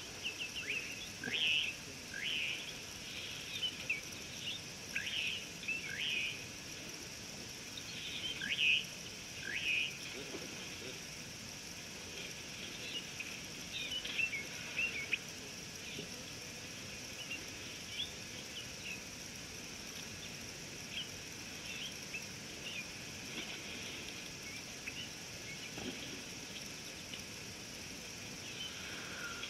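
Wild birds calling over a steady high-pitched insect chorus. In roughly the first ten seconds there is a run of loud whistled notes, each sliding quickly downward; after that come scattered shorter, fainter chirps.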